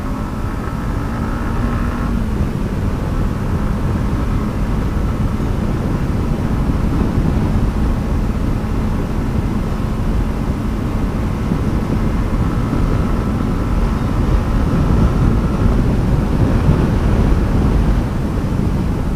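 Yamaha MT-15's single-cylinder engine running steadily while riding, with wind rushing over the helmet or body-mounted action camera. The engine note drops a step about two seconds in, then holds steady.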